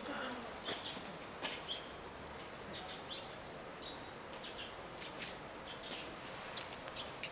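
Small birds chirping: short, high notes, about two a second, over faint outdoor background hiss.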